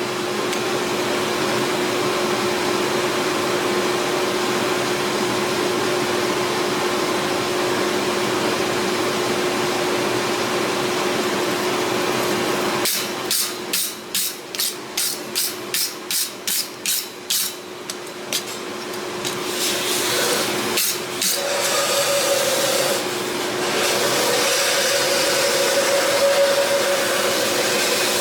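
Steady roar of a forge with a run of hand-hammer blows forging the hot steel of a bearded axe head, about three strikes a second for some five seconds past the middle.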